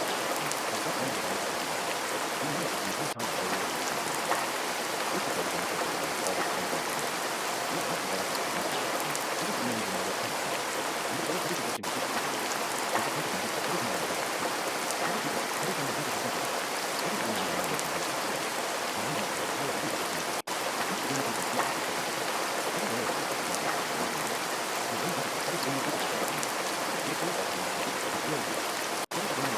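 Steady, even rain sound, a dense hiss of falling rain. It drops out for an instant about every eight and a half seconds, with a small click just after each dropout, like a short recording played on repeat.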